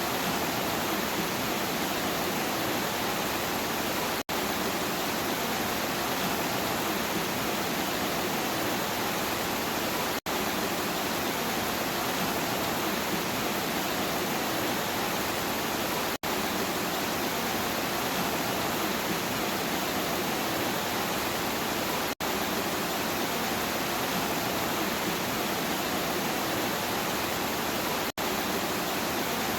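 Steady, even rain noise, heavy and without thunder, broken by a brief dropout about every six seconds.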